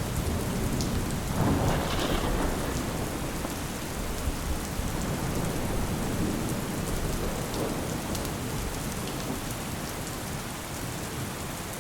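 Steady rain falling, with a low rumble of thunder that swells about a second and a half in and then slowly fades.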